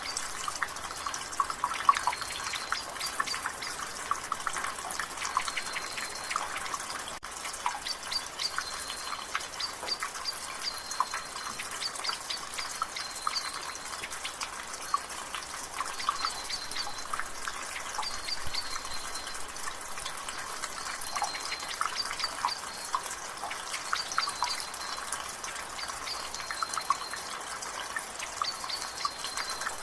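Rainwater dripping and splashing from a gutter in many quick, irregular drops, over a soft rain hiss. Birds chirp in the background, short high notes repeating every second or two.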